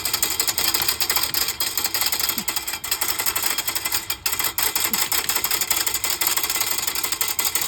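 A container being shaken hard, its dry contents rattling in a rapid, continuous stream of clicks.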